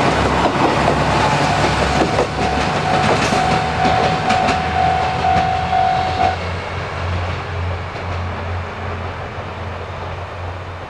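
Yufuin no Mori diesel railcar train running by, its wheels clicking over the rail joints, with a steady high whine for a few seconds in the middle. After that the clicking stops and a low diesel drone carries on, slowly fading.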